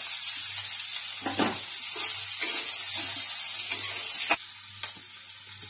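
Chopped onion, green chilli, ginger and cumin sizzling in hot oil in a steel kadhai while a metal spatula stirs them, scraping the pan now and then. The sizzle drops noticeably about four seconds in.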